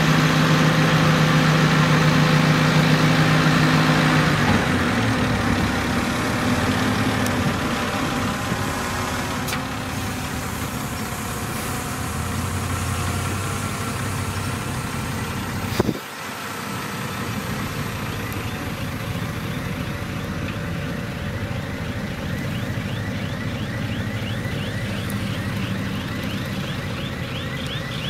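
Heavy diesel machinery engines running steadily, loudest in the first few seconds, with a sharp break about halfway through. Near the end a rapid, repeating high-pitched chirping sets in over the engine sound.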